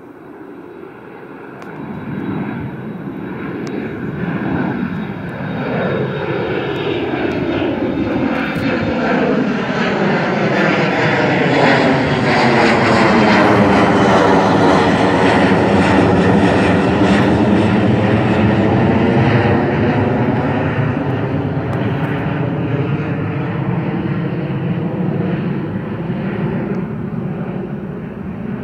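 Jet airliner departing and passing by, its engine roar building to a peak about halfway through, then easing off slightly, with a sweeping, phasing quality as it goes past.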